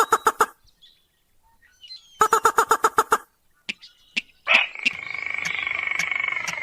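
Crake and rail calls: a short run of fast repeated notes, a second run about two seconds in, then from about two-thirds of the way through a continuous rapid trill with a regular ticking over it.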